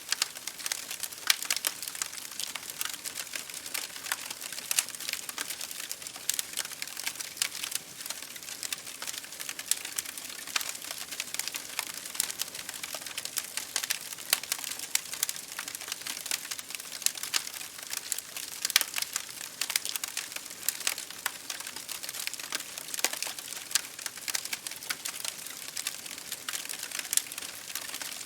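Wood fire crackling in a fireplace, many irregular pops and snaps over a steady hiss, blended with rain pattering on a window.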